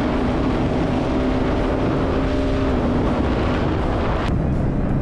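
Motorcycle engine running at speed under heavy wind rush. Its pitch sags slightly over the first few seconds. About four seconds in, the sound changes abruptly to a lower, steadier engine tone with less wind.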